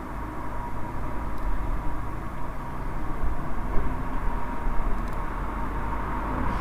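Wood campfire burning: a steady low rumble with two faint crackles, about a second and a half in and about five seconds in.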